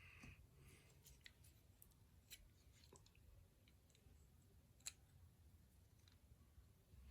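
Faint scattered clicks of small plastic toy parts being handled and cut, over near silence; the sharpest click comes a little before the five-second mark.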